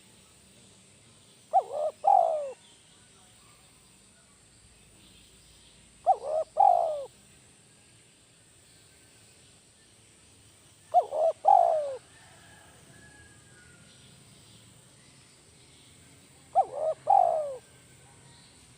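Spotted dove (tekukur) cooing: four short three-note coo phrases, about five seconds apart. It is the 'kuk 1' song type that Indonesian dove keepers call gacor.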